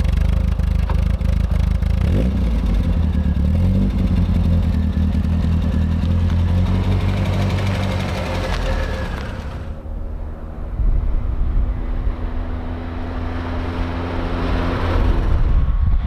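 Triumph Spitfire's four-cylinder engine running through its new stainless steel standard exhaust, heard close up with a few changes in revs. After a cut about ten seconds in, it is heard driving, quieter and steadier, then growing louder as the car approaches near the end.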